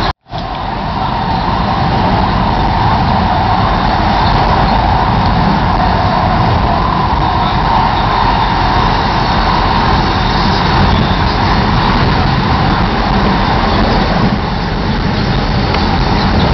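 Steady rumble and hiss of a high-speed train's passenger carriage in motion, with a band of noise in the middle of the range. The sound cuts out for a moment just after the start.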